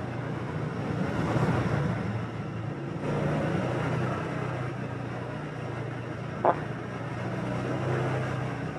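Motorbike riding through city traffic: a steady low engine hum under road and wind noise, with one short horn beep about two-thirds of the way through.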